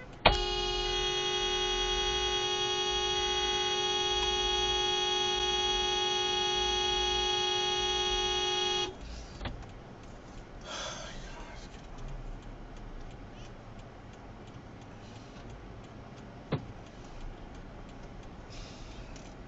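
Car horn held down in one long, steady blast of about eight and a half seconds, starting and stopping abruptly. After it, low steady road noise with one sharp click near the end.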